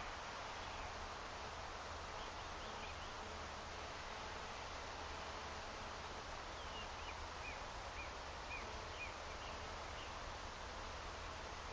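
Quiet, steady outdoor background hiss with faint chirps from a small bird: a few about two seconds in, then a run of about eight short high notes roughly half a second apart in the second half.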